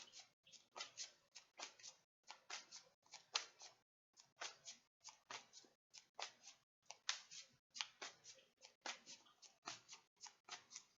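A deck of tarot cards being shuffled by hand: quick, crisp slaps of cards, about three or four a second, broken by brief pauses.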